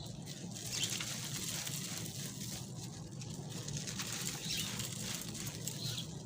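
Dry black concrete crumbling and crunching, a dense run of fine crackles and grit with a slightly louder crunch about a second in.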